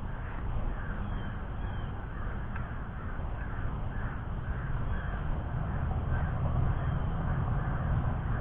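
Crows cawing in a long run of short repeated calls, about two a second, over a steady low rumble.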